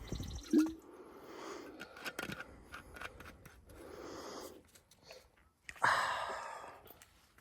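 A hiker breathing heavily on the trail, with audible breaths about every two seconds, the loudest one about six seconds in. Scattered light clicks of footsteps and gear run through it.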